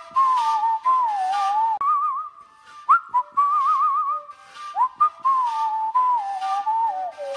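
A whistled melody with trills and pitch slides, over a background music track with light, regularly spaced percussion.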